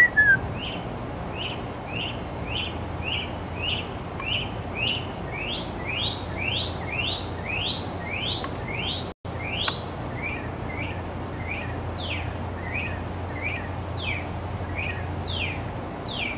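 A songbird singing a long run of short whistled notes, about two a second. It changes pattern twice: short even notes first, then taller up-and-down slurred notes, then quicker down-slurred notes. A steady low hum runs underneath.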